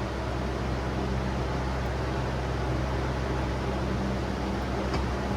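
Steady machine hum with an even hiss, fan-like, and a faint click near the end.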